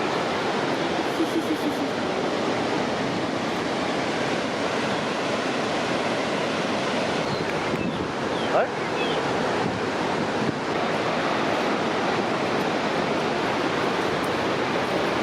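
Steady rush of a large waterfall's falling water, an even noise that holds without a break.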